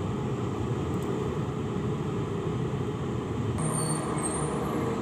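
Steady low ambient rumble, with a few faint high squeaks near the end.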